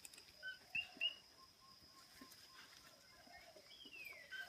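Birds chirping in short high notes, with a long falling whistle near the end, over a steady high-pitched background tone.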